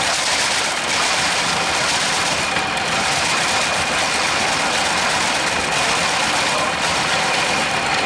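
An engine-driven machine running steadily, with an even noise and a faint steady whine.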